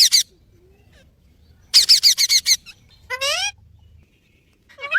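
Parrot calls: a quick burst of rapid, shrill, repeated notes at the start and a longer run of them about two seconds in. A lower, sliding call follows about three seconds in.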